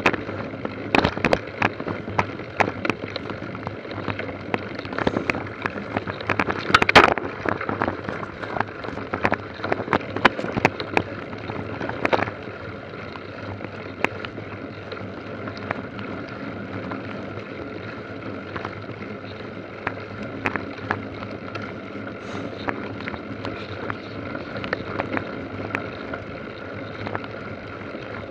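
Mountain bike ridden over rough trail: a steady rolling noise with wind on the microphone, broken by frequent sharp rattles and knocks that come thickest in the first half.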